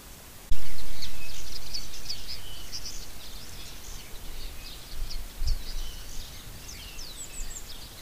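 Small birds twittering: many short, quick high chirps and little gliding notes, cutting in suddenly about half a second in, loud at first and then fading to a steady background chatter.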